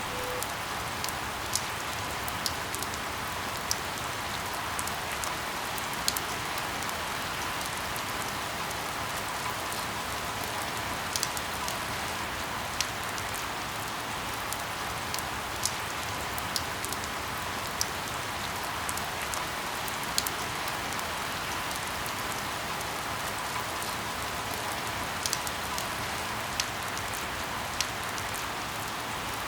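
Steady rain falling, an even hiss with single drops landing close by as sharp, irregular ticks about once a second.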